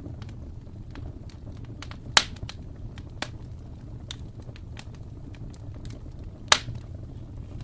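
Wood fire crackling in a fireplace: a steady low rumble of flames under scattered small crackles, with two loud sharp pops, one about two seconds in and another about four seconds later.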